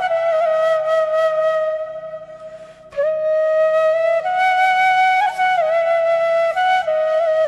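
Background music: a flute playing a slow melody of long held notes, the phrase fading away about two seconds in and a new phrase starting about a second later.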